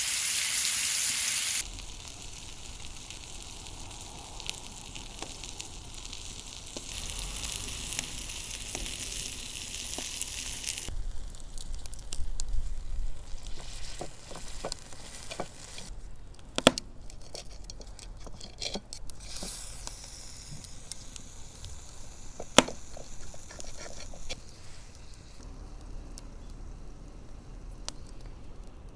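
Food sizzling in hot fat on a hot iron plate over a wood fire, loudest in the first two seconds, swelling again for a few seconds, then settling lower. Scattered sharp clicks and two loud knocks break in during the second half.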